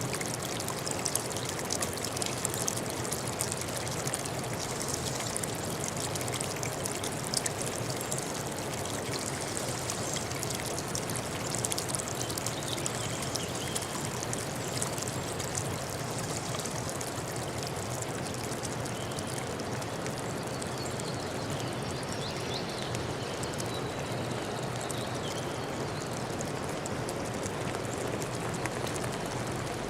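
Clear forest stream running steadily, a continuous babble of water with small sharp splashes, more of them in the first half.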